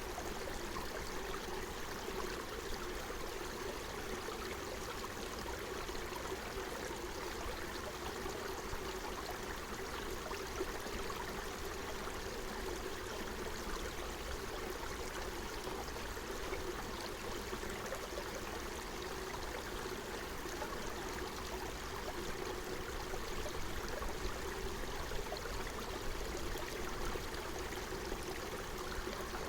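Forest stream flowing steadily, an even, unbroken wash of running water.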